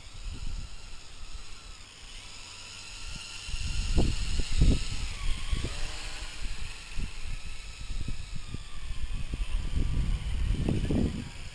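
MJX X101 quadcopter's motors and propellers whining in flight, the pitch sliding down and back up about halfway through as it manoeuvres. Wind buffets the microphone in heavy gusts, loudest about four seconds in and again near the end.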